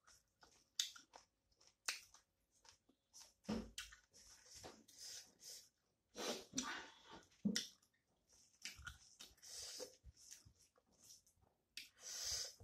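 Close-miked chewing and mouth sounds of a person eating rice and curry by hand: soft smacks and small clicks come scattered and irregular, with brief pauses between.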